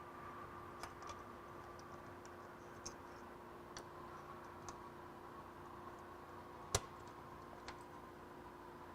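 Faint, scattered small clicks and ticks of a switch and wires being handled and fitted into a small housing, with one sharper click about two-thirds of the way in, over a faint steady hum.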